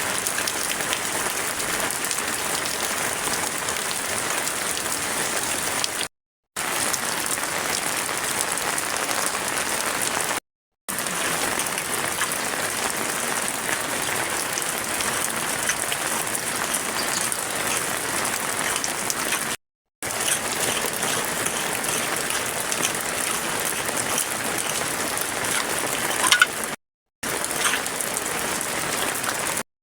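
Heavy rain falling steadily, an even hiss of drops, broken by four brief cuts to complete silence.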